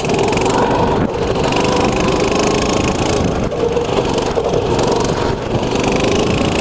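Small mini bike engine running steadily under part throttle while riding, its pitch wavering slightly, with wind noise on the microphone.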